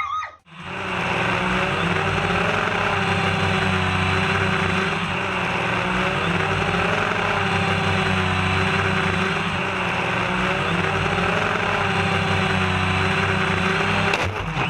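A steady motor running with a loud hissing rush; it starts abruptly about half a second in and cuts off near the end.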